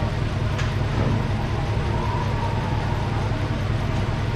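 2009 Lincoln MKZ's 3.5-litre V6 idling steadily while misfiring, with a light click about half a second in.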